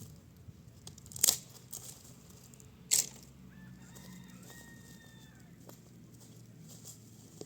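Two sharp cracks about a second and a half apart, then a rooster crowing once for about two seconds.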